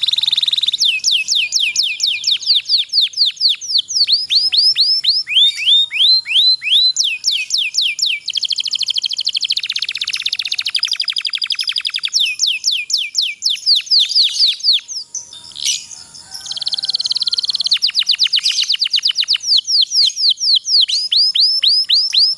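Domestic canary singing long rolling trills: fast runs of short notes, each sliding down in pitch, repeated many times a second in long unbroken phrases. There is a brief lull about two-thirds of the way through.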